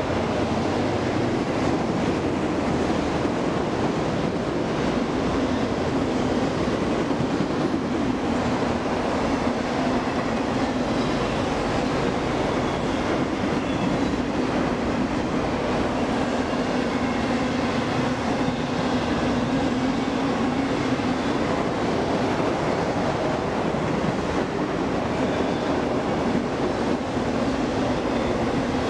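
Freight train's autorack cars rolling past, a steady rumble of steel wheels running on the rails.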